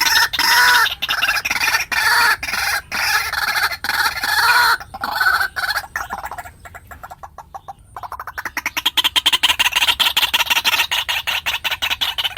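White-breasted waterhen calling: a fast run of repeated harsh clucking notes, loud for the first five seconds, fading for a couple of seconds, then a rapid steady stream of notes again from about eight seconds in.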